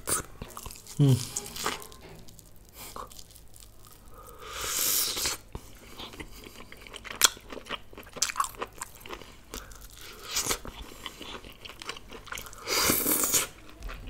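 Close-miked chewing of spicy chicken pieces: many short wet smacks and crunches from the mouth. Two louder noisy rushes of under a second each come about four and a half seconds in and again near the end.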